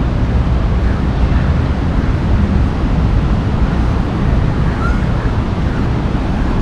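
Wind buffeting the microphone: a steady, loud low rumble with small gusty swells.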